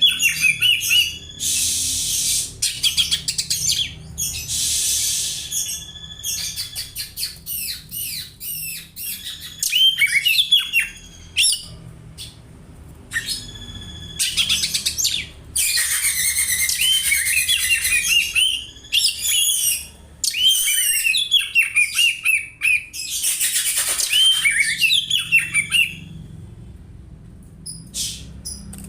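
Oriental magpie-robin singing a fast, varied song of high chirps and harsh chattering runs that imitate Eurasian tree sparrow calls. It comes in bursts with short pauses between them.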